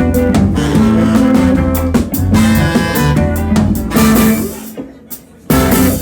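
Live rock band playing with guitar, bass and drum kit. About five seconds in the band drops out briefly, then comes back in with a loud hit.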